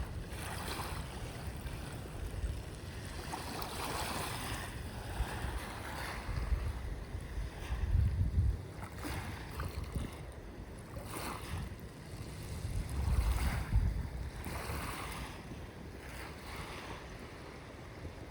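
Ocean waves washing in and drawing back, swelling and fading every few seconds, with wind buffeting the microphone in low gusts about eight and thirteen seconds in.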